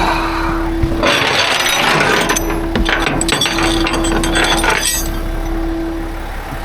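Broken glass and debris scraping and clinking for about four seconds, with many sharp little clicks, over a steady hum.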